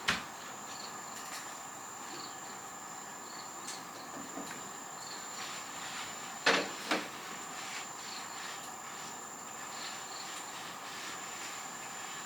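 Insects trilling steadily in a high, even buzz, with faint repeated chirps. A few sharp knocks cut through it: one right at the start and a louder pair about six and a half seconds in.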